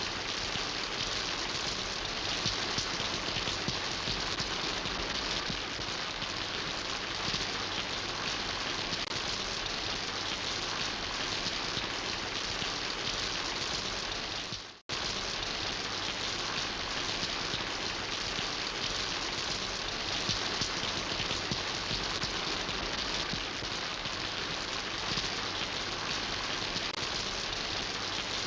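Steady rain falling on hard surfaces, an even hiss of drops. About halfway through the sound dips and cuts out for an instant before resuming.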